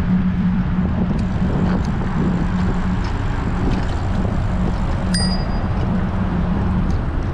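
A bicycle bell rings once, a single short ding about five seconds in, over steady wind noise on the microphone and a low rumble from the moving bike.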